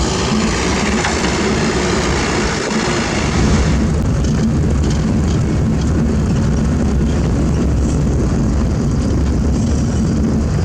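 Heavy diesel engine of earthmoving machinery running steadily under load. A broad rushing hiss sits over it for the first four seconds, then dies away.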